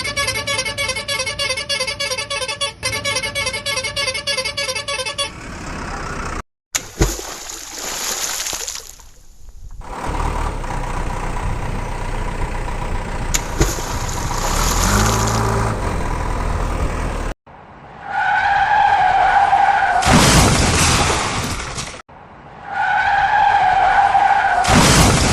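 A series of cut-together cartoon vehicle sound effects: a fast repeating electronic tone pattern at first, then engine and tyre-skid noises, and two long horn honks near the end.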